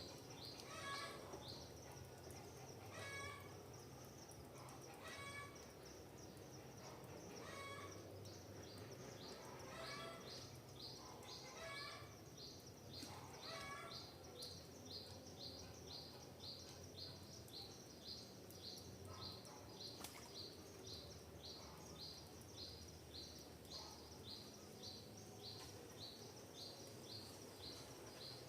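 Faint forest birdsong. One bird repeats a short high chirp about twice a second throughout, while another gives a short, ringing call every two seconds or so during the first half. A low, steady background rumble sits underneath.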